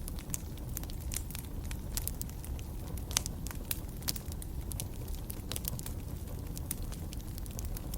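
Wood fire burning in a fireplace: a low steady rumble of flames with irregular crackles and pops, the sharpest pop about three seconds in.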